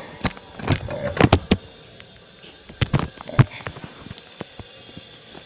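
Handling noise: a quick run of sharp clicks and knocks in the first three and a half seconds, then only a faint hiss.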